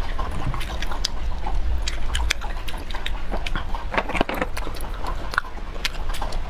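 Close-miked eating: chewing with wet mouth smacks and many small sticky clicks as mouthfuls of shellfish are bitten and chewed.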